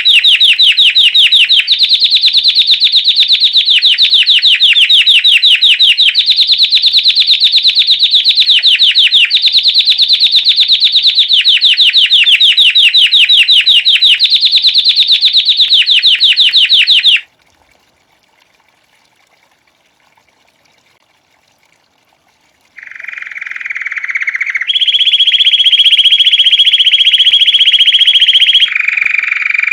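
White Belgian canary singing the classic 'campainha' (bell) song: very fast, even trills of high notes in a string of phrases of a second or two each. About 17 seconds in it stops for a few seconds, then resumes with smooth rolls that step up in pitch and then down again near the end.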